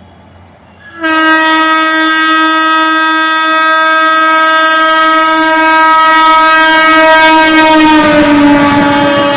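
Indian Railways train horn, one long steady blast starting suddenly about a second in. About eight seconds in its pitch drops a little and the rumble and clatter of the train's wheels on the track join in as the train passes close by.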